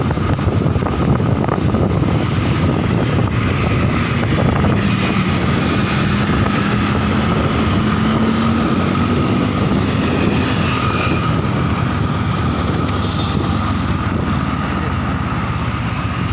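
Steady wind noise buffeting the microphone on a moving motorcycle, with engine and road noise beneath it. A low hum rises slowly in pitch for a few seconds midway.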